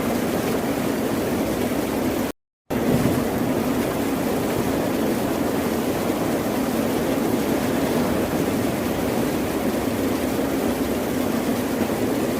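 Steady rushing of ocean surf, an even wash of water noise without distinct wave breaks. About two seconds in, the sound cuts out completely for under half a second, then resumes.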